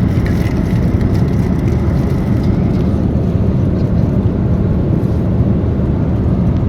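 Steady low roar of an airliner's cabin in cruise flight, the noise of the engines and the air rushing past the fuselage, with a few faint clicks.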